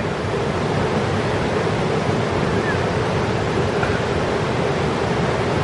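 Steady rushing of a mountain creek flowing nearby.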